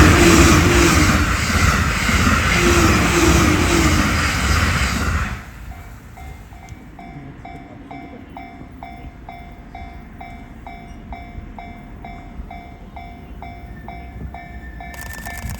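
Electric train passing a level crossing at speed, its wheels clattering rhythmically over the rail joints; the noise drops off sharply about five seconds in as the last car clears. The crossing's warning bell then keeps ringing, about two strikes a second.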